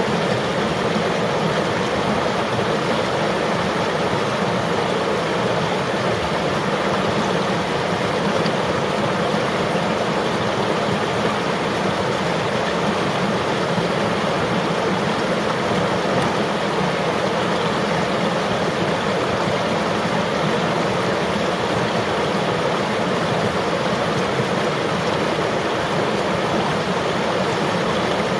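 River water flowing steadily over rocks, a constant rushing wash.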